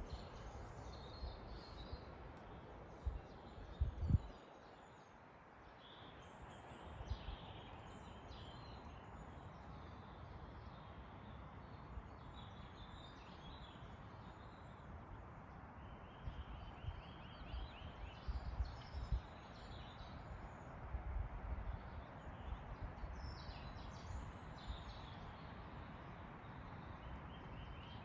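Forest birds chirping and calling over a steady hiss of wind in the trees, with two quick trills of rapidly repeated notes. Wind gusts rumble on the microphone now and then, the strongest a thump about four seconds in.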